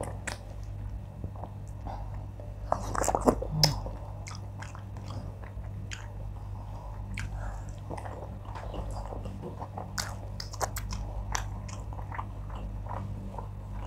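Close-miked eating sounds: chewing and wet mouth clicks as wheat fufu with oha soup and fish is eaten by hand, with a louder cluster of smacks about three seconds in. A steady low hum sits underneath.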